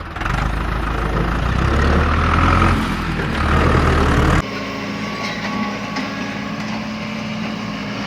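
Heavy vehicle engine running, a deep rumble. About halfway through it cuts abruptly to a quieter, steadier engine hum.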